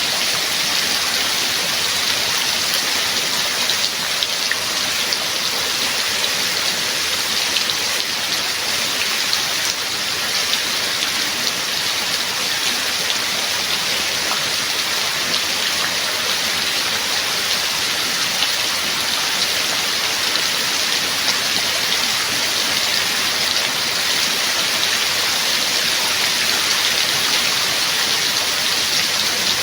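Steady, heavy rain falling, an even hiss with scattered raindrop ticks, no thunder.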